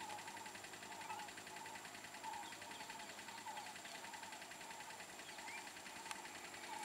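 Quiet outdoor ambience: a bird repeating a short call about once a second, with a few faint higher chirps and a steady high thin tone in the background.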